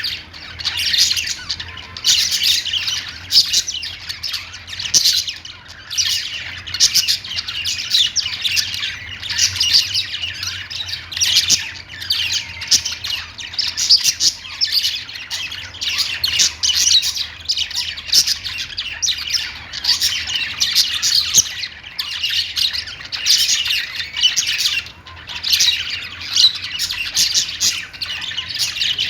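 A flock of pet budgerigars chattering: continuous rapid chirps, squawks and warbles in quick bursts with only brief pauses, over a faint steady low hum.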